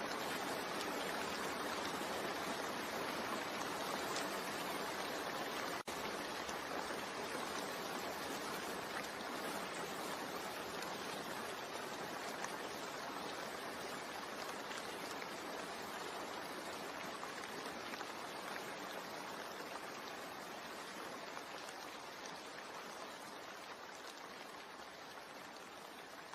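Steady rain falling, an even hiss that slowly grows quieter through the stretch, with a momentary break about six seconds in.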